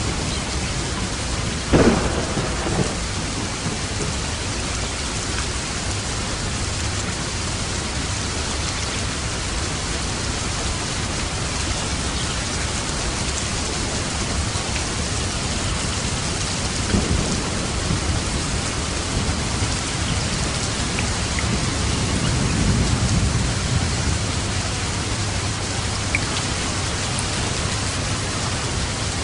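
Steady heavy rain with thunder: a sharp thunderclap about two seconds in, then lower rumbles around the middle and later on.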